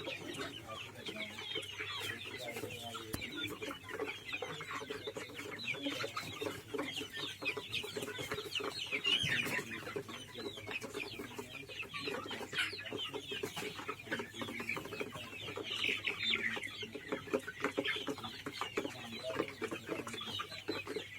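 A flock of Kadaknath chickens clucking, many birds calling at once in a dense, steady chatter of short overlapping calls.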